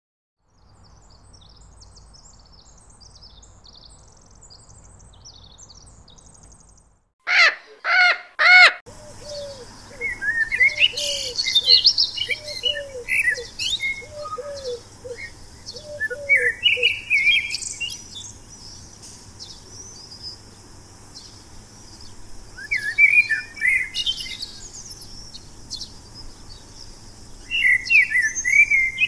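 Wild birds calling. Faint high chirps at first, then three loud calls in quick succession about seven seconds in, followed by a mix of chirps and whistles with a run of short repeated lower notes.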